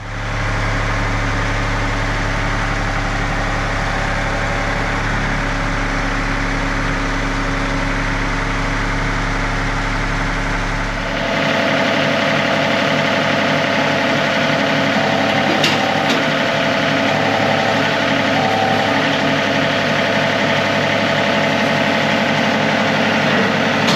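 A John Deere tractor engine runs steadily at a low, even speed. About eleven seconds in, its sound changes abruptly to a different pitch pattern.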